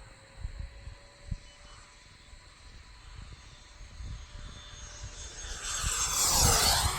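Yellow turbine-jet F-18 model making a fast pass. Its jet whine grows, is loudest about six and a half seconds in, and drops in pitch as it goes by.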